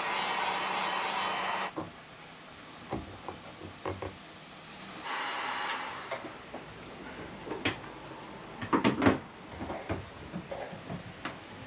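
Clicks and knocks of a spanner and plumbing fittings being worked on, with a cluster of sharper knocks about nine seconds in. A steady hiss runs for the first couple of seconds and again briefly about five seconds in.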